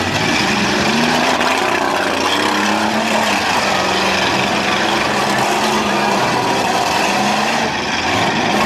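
Demolition derby car engines running loudly.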